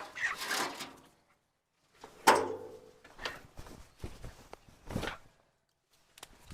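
A series of separate knocks and rustles, the loudest a sharp knock about two seconds in.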